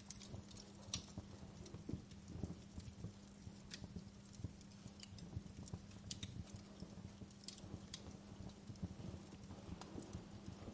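Fire crackling, with irregular sharp pops and snaps over a low steady hum.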